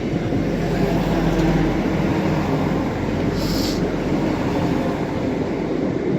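Class 175 diesel multiple unit's engines running in a steady diesel drone, with a short hiss of air about three and a half seconds in.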